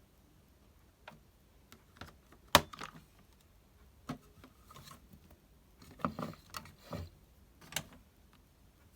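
Plastic toy washing machine being handled: scattered light clicks and knocks, one sharp click a little over two and a half seconds in and a quick cluster of knocks around six to seven seconds in.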